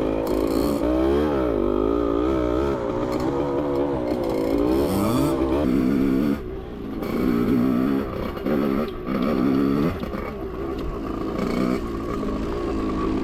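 Dirt bike engine under way, its revs rising and falling with the throttle. About six seconds in it eases off briefly, then picks up again in short bursts of throttle.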